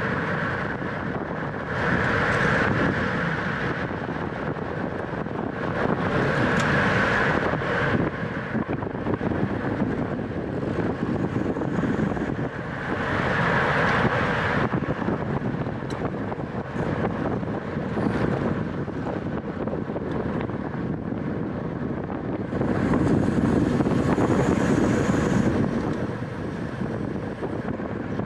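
Wind rushing over the microphone of a camera riding on a racing bicycle, over a steady rumble, swelling louder four times as the speed or gusts rise.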